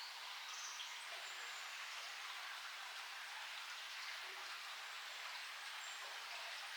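Steady outdoor forest ambience: an even rushing hiss, with a few faint, short, high bird calls.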